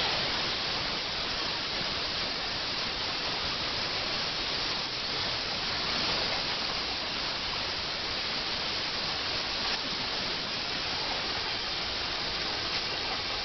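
Compressed air blowing from an air-hose wand in a steady hiss with no breaks.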